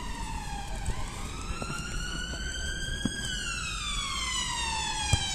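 Emergency vehicle siren wailing, its pitch sliding slowly up, then down over about two seconds, then starting to rise again near the end. A couple of faint sharp knocks sound under it.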